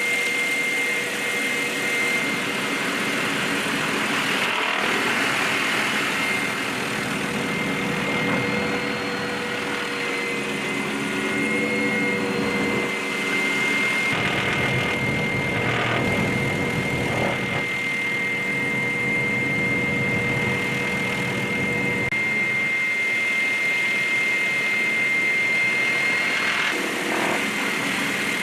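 Helicopter turbine engine running, a steady high whine over a constant rushing noise.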